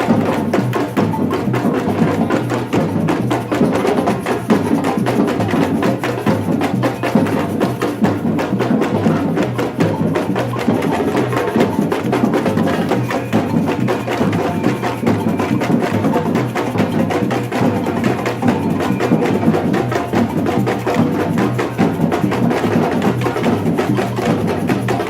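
Batucada (samba percussion ensemble) playing a dense, steady drum rhythm, with low drum beats under a fast stream of sharp strikes.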